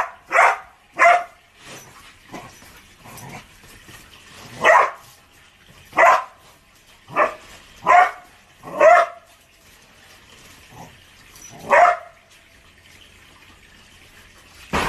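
A dog barking in single, separate barks: three close together at the start, a gap, then several more a second or so apart, and a last one about twelve seconds in.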